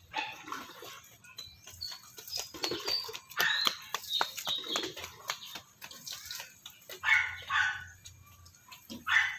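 Cat yowling and meowing in protest while being bathed, several drawn-out calls, among scattered knocks and clatter.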